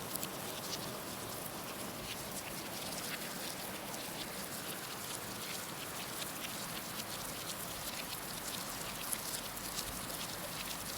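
Heavy rain falling steadily: an even hiss with many sharp ticks of individual drops hitting.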